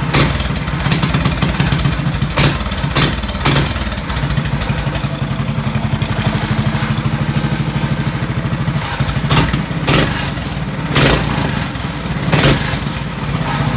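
Drift trike's straight-piped small engine idling with a fast, uneven exhaust pulse, still warming up after a cold start. Several sharp cracks cut through the idle, a few in the first four seconds and more between about nine and twelve and a half seconds in.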